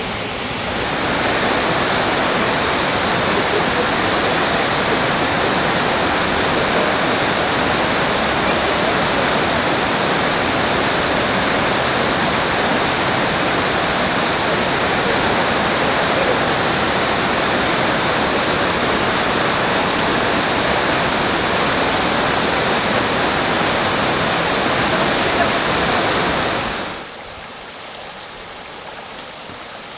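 Mountain stream water rushing and falling over rocks, a loud steady roar of water. Near the end it drops suddenly to a quieter flow.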